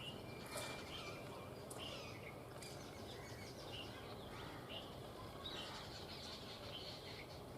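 Outdoor ambience: a steady low background noise with short, high bird chirps scattered through, about one every second.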